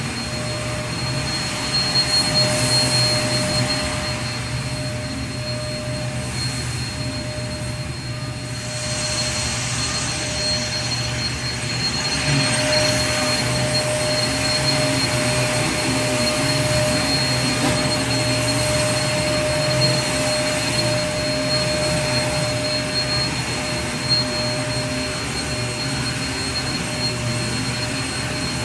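Vacuum cleaner running steadily: a constant rushing of air with a steady whine on top, swelling slightly in level now and then.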